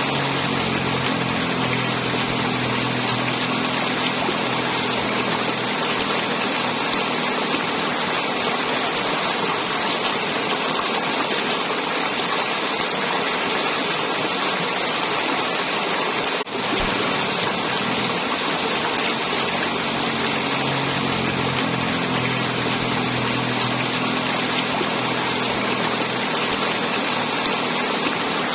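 River water flowing and gurgling in a steady, dense rush. A faint low hum comes and goes beneath it. The sound drops out for a split second a little past the middle.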